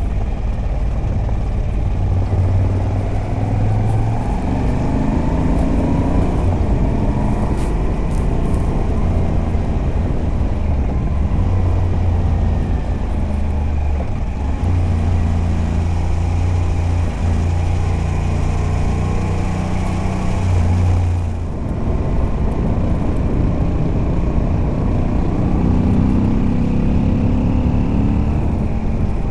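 Moto Guzzi V85TT's air-cooled transverse V-twin, fitted with its stock exhaust and a Mistral decat pipe, pulling under load on the move with wind noise. The engine note climbs and settles several times, dips briefly about 21 seconds in, and climbs again near the end.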